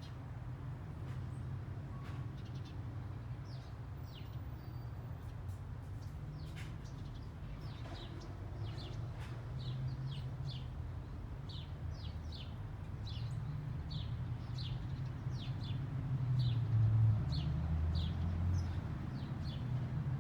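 Small birds chirping: short, high, falling chirps, scattered at first and then coming about twice a second, over a steady low rumble.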